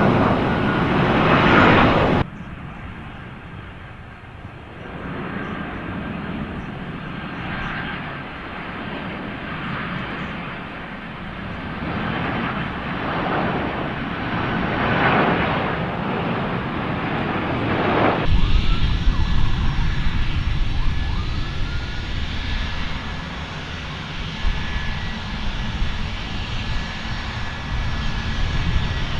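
Airplane engines running at an airport, a continuous rumble that swells and fades. It changes abruptly twice, about two seconds in and again past the middle, where a deeper, louder rumble takes over.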